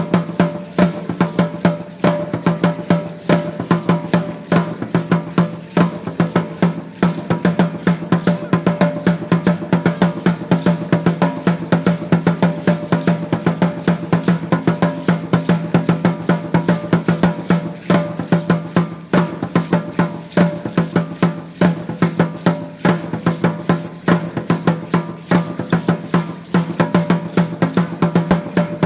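Aztec dance drumming: drums beating a steady, driving rhythm of evenly repeated strokes, with a sustained low ringing tone beneath.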